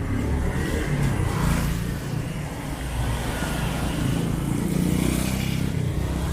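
Road traffic passing close by: vehicle engines running with a steady low drone and tyre noise, swelling twice as vehicles go past.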